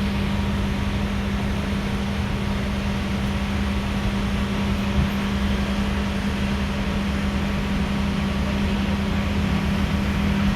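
Steady low hum and rumble inside a passenger railway carriage, a constant low drone with an even mechanical noise over it.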